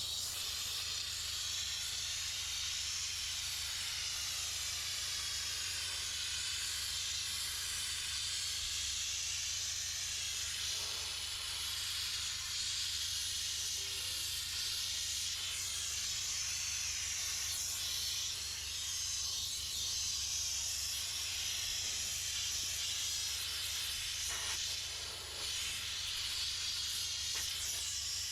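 Steam cleaner jetting steam from its nozzle: a steady hiss with a low hum underneath, briefly easing off twice, about halfway and near the end.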